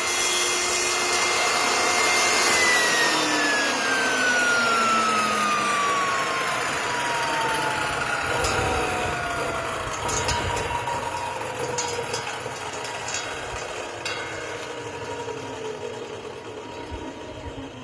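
Table saw switched off after a cut, its motor and blade coasting down: a steady whine that, about two seconds in, starts falling slowly in pitch and fades over roughly fifteen seconds.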